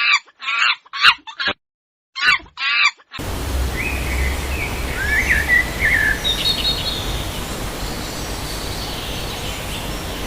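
A chicken clucking in short, separate calls for about three seconds. Then the sound cuts to a steady outdoor background with a low rumble and a few brief bird chirps.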